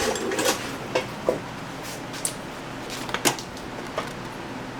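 Tools and parts being handled and set down: a few scattered clicks and light knocks, the loudest about three seconds in.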